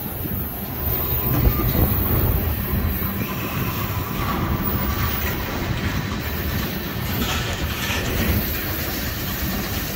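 Freight train's tank cars rolling past at close range: steel wheels running over the rails with a steady, loud rolling noise.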